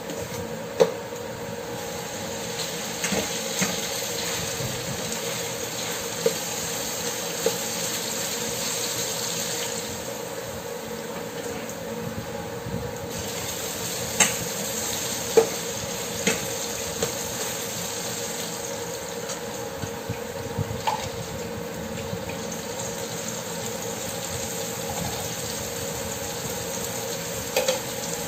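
Diced tomatoes and onions sizzling in hot oil in a stainless steel pan: a steady frying hiss over a low steady hum. A metal spatula stirs and scrapes the pan, giving a dozen or so scattered sharp clicks.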